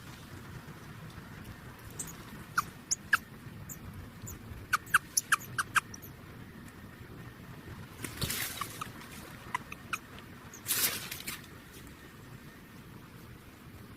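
Baby birds peeping: short, sharp chirps in two quick clusters, a few more later, with two brief rustling bursts in between.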